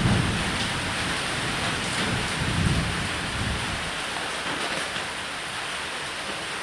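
Steady rain falling on a roof, with low thunder rumbling at the start and again about two and a half seconds in.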